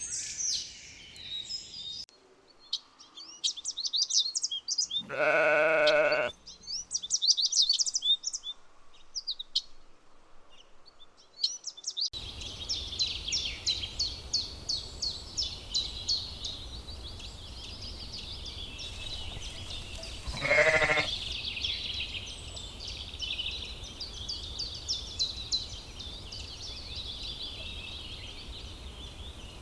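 Sheep bleating twice, a longer bleat about five seconds in and a shorter one about twenty seconds in, over continuous rapid chirping of small birds.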